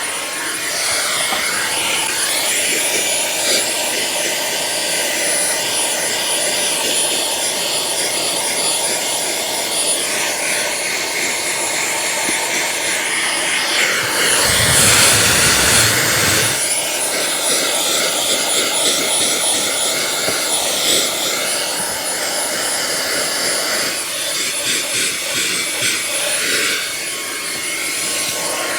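Fanttik V8 Mate cordless handheld car vacuum running steadily with a high whine, drawing through its flexible hose and narrow nozzle on a car floor mat. About halfway through, the suction rushes louder for about two seconds.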